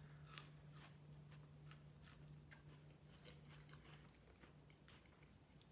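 Faint chewing of a mouthful of sandwich: soft, scattered mouth clicks and small crunches over a steady low hum.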